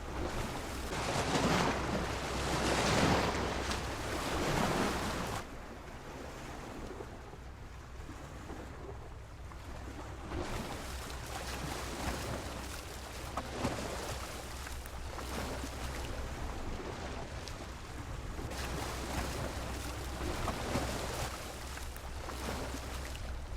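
Sea waves washing against a pier, with a louder surge in the first few seconds and smaller swells after, over a low rumble of wind on the microphone.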